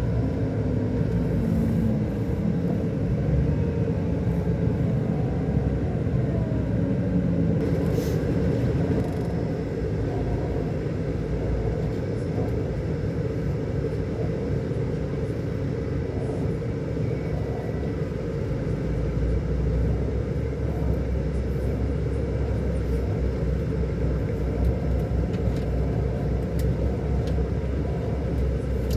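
Scania K400 coach's six-cylinder diesel engine running while the bus is under way, a steady low drone. Its pitch eases down over the first several seconds, and the deep bottom note swells from a little past the middle.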